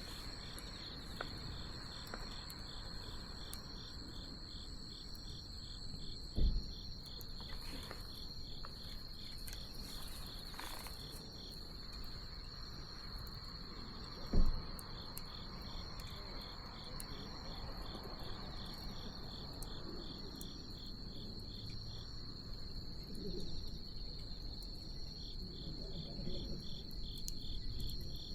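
Night insects, crickets, chirring steadily: one continuous high trill under a pulsing chirp at about two to three pulses a second. Faint crackling clicks from a wood bonfire sound through it, and two low thumps come about six and fourteen seconds in.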